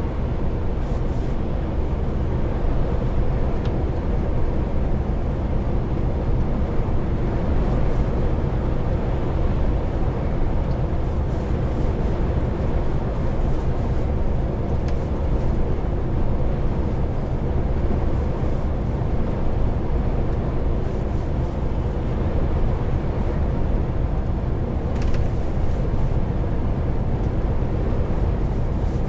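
Heavy truck driving at a steady pace: an even drone of the diesel engine and road noise that stays level throughout.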